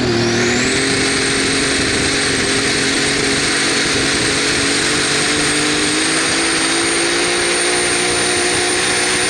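A competition pulling vehicle's engine running hard at high rpm, its pitch slowly climbing, with a high whine that rises in the first second and then holds steady over a loud rushing noise.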